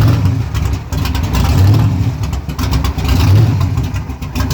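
A car engine running, its low rumble swelling and easing about every second and a half.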